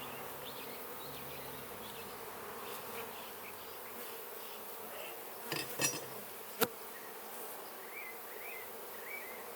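Honey bees from an opened hive buzzing steadily as frames are inspected. A few sharp knocks come about two thirds of the way through, the last one the loudest.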